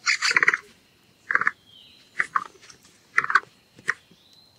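Capybara calling: a series of short, separate calls, about one a second.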